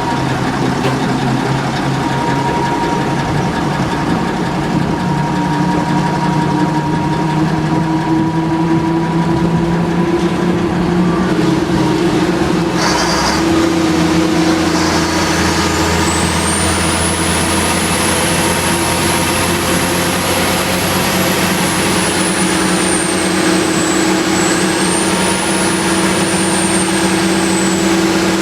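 Fire ladder truck's engine running under way, heard from the open cab, with a short hiss about halfway through. After the hiss a high, thin whine rises and wavers in pitch.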